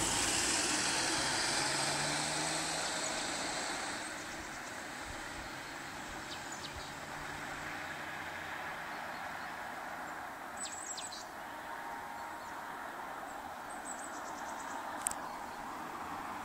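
Golf V GTI engine running, its low hum fading over the first few seconds as the car draws away, then steady background noise with a few faint clicks and one sharp click near the end.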